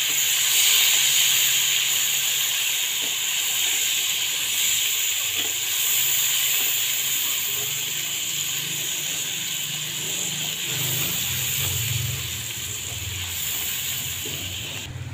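Cumin and a grated masala base frying in hot oil in a kadhai, sizzling with a steady hiss that stops abruptly near the end.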